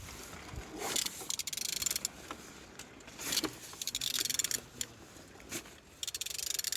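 A ratchet wrench turning the crankshaft of a Z17DTJ 1.7 diesel engine by hand, clicking rapidly in three or four bursts as the handle is swung back between pulls. The engine turns over freely, a sign it is not seized.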